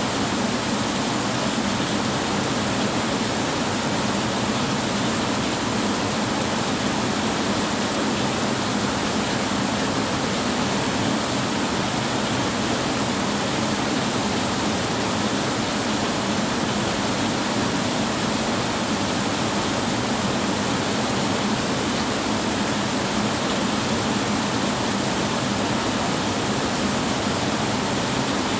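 Heavy rain falling steadily, an even, unbroken wash of noise with no thunder.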